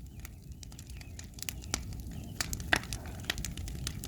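Large bonfire of scrap burning well, crackling with frequent sharp, irregular pops over a steady low rumble.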